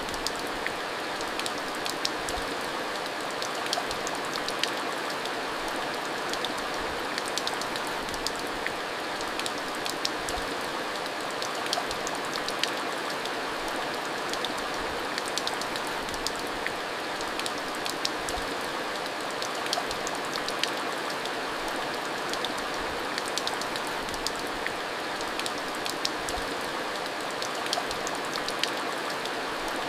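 Steady heavy rain, a constant hiss with many sharp drop ticks scattered through it.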